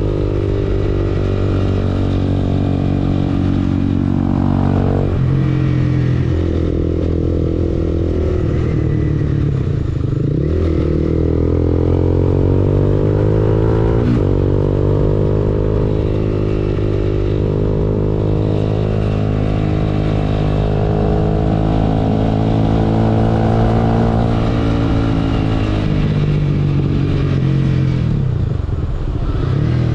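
Honda CBR250R motorcycle engine running through an Akrapovic exhaust, its pitch rising and falling over several seconds at a time as the revs change, with a sudden dip and climb about ten seconds in and a drop near the end.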